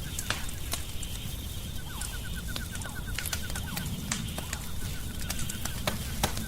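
Wood fire in a fireplace crackling, with sharp pops scattered irregularly over a low steady rumble. Faint rapid chirping, a quick run of short pulses, sounds in the background, mostly in the first half.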